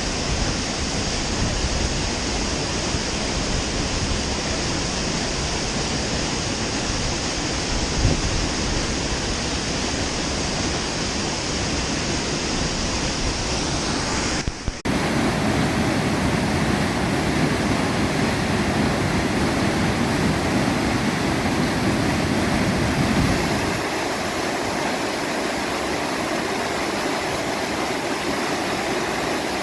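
Waterfall's water rushing steadily. About halfway through there is an abrupt cut to another recording of the same steady rushing water.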